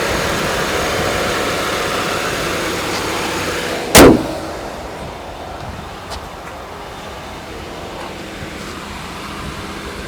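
Buick 3.8-litre pushrod V6 idling with the hood open. About four seconds in there is a single loud slam, the hood being shut, after which the engine sounds quieter and muffled.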